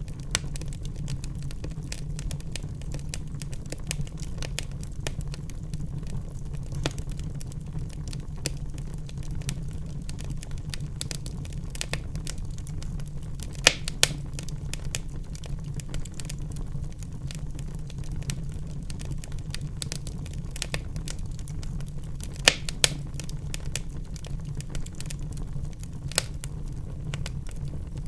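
Wood fire burning in a fireplace: a steady low rumble of the flames with irregular crackling, and a few louder sharp pops from the burning logs.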